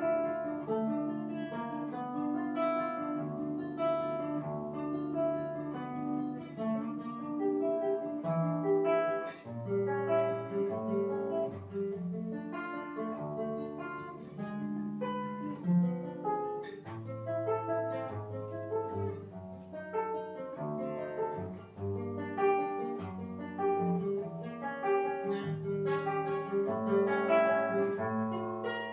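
A solo plucked string instrument playing a melodic classical piece, single notes over a moving bass line with occasional chords, beginning just after a silence.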